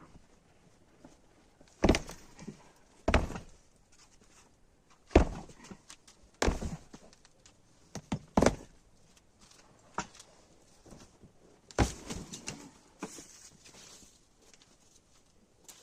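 A string of irregular, sharp knocks and thuds, about seven of them a second or two apart, some with a short rattle after, as of objects and materials being handled and set down during renovation work in a small room.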